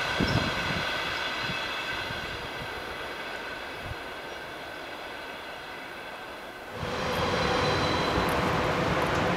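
A passenger train passing and receding, its rail and wheel noise fading with a few low thumps. About seven seconds in, a louder steady rushing noise begins abruptly.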